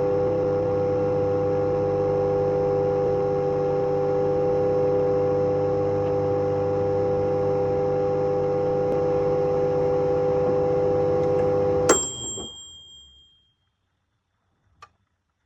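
Microwave oven running with a steady hum. About twelve seconds in it stops with a click and a short beep, and the hum dies away quickly. A single faint click comes near the end.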